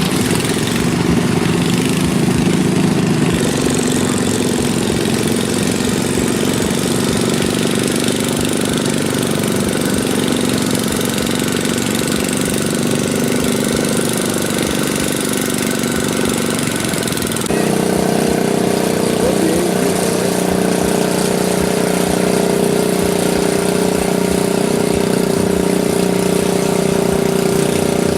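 Tractor engine running steadily. About two-thirds of the way in, its note jumps abruptly higher and a little louder, then holds steady again.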